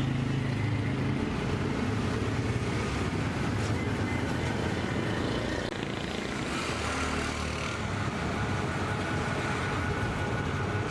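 A motor vehicle engine running steadily amid street noise, with an abrupt change in the sound about six seconds in.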